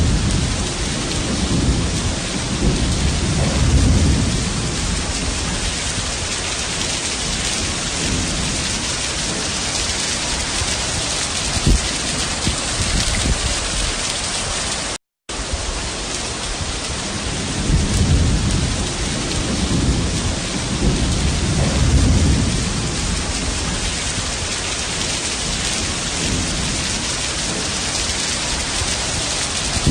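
Heavy rain pouring steadily, with deep rumbles swelling twice, a few seconds each. The sound cuts out completely for a moment about halfway through.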